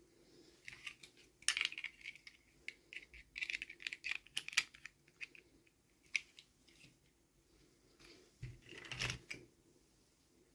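Small plastic toy pieces and packaging being handled: a quick run of light clicks and crinkling rustles for the first few seconds, a single click a little later, then a soft thump and rustle near the end.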